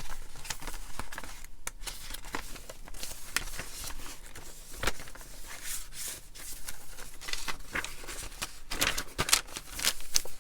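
Paper and card pages of a handmade junk journal rustling and crinkling as they are turned and handled, with many short clicks and taps.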